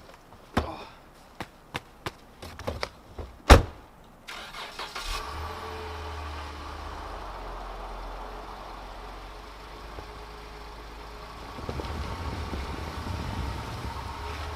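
A few knocks and a loud door slam, then a Jeep Grand Cherokee's engine starts about four seconds in and idles steadily, getting louder near the end.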